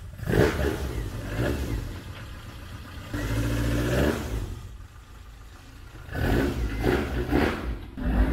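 Toyota 4A-GE four-cylinder engine in an AE70 Corolla being revved. It gives a few short blips, one longer held rev about three seconds in, then a quick run of blips near the end.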